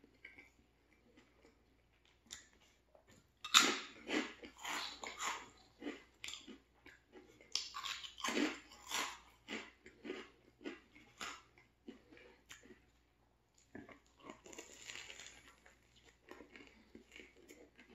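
Crisp veggie potato chips being crunched and chewed, with two loud spells of crunching about three and a half and eight seconds in, and softer chewing of a turkey sandwich in between and near the end.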